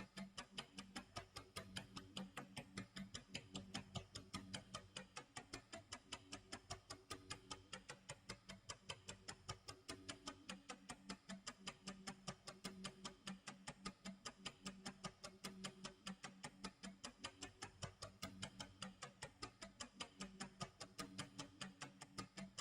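Quiet, even clock tick-tock sound effect, ticking rapidly and steadily, with a low soft tone underneath that fades in and out every few seconds.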